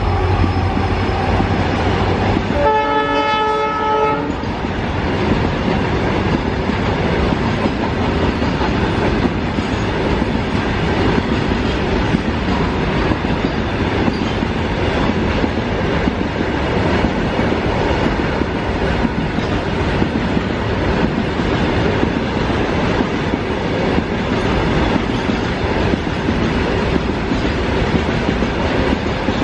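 Indian Railways freight train running past with a steady rolling rumble of its wagons on the rails. The locomotive's horn sounds once, briefly, about two and a half seconds in.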